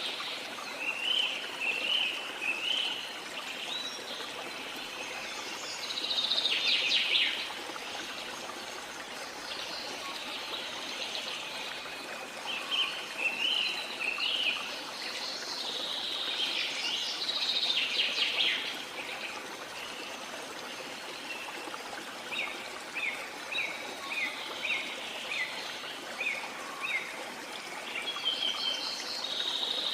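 Steady wash of water with small birds singing over it: chirping phrases, bursts of busy twittering, and a run of short, evenly repeated chirps in the second half.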